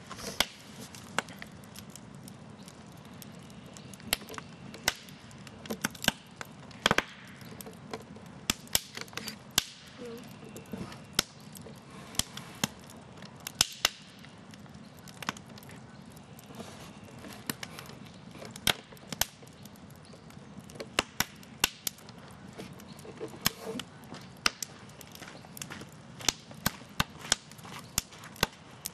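Campfire burning with irregular sharp crackles and pops, some close together and some a second or more apart, over a steady low hiss.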